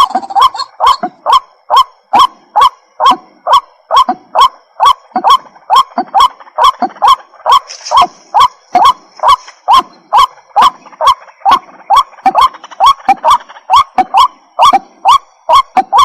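White-breasted waterhen calling: a steady, rapid run of short repeated call notes, about three a second.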